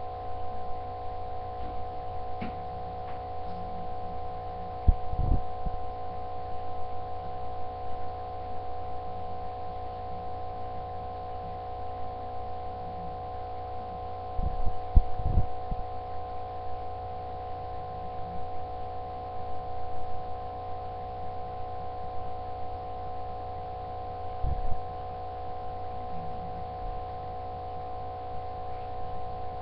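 A steady hum of several held tones without a break, with a few dull knocks about 5, 15 and 25 seconds in.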